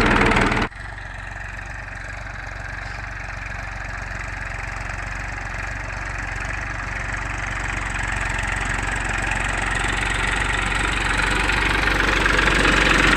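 Massey Ferguson 241 DI tractor's three-cylinder diesel engine running steadily, gradually growing louder. A louder, fuller sound cuts off abruptly under a second in.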